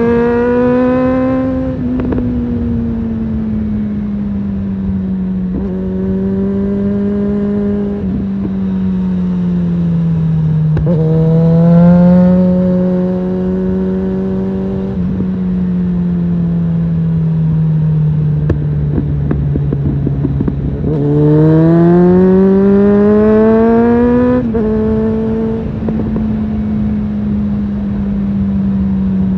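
Suzuki GSF650 Bandit's inline-four engine through a Storm aftermarket exhaust, riding under varying throttle. The note climbs near the start, swells again about eleven seconds in and eases off, then climbs hard and drops suddenly with an upshift near the end.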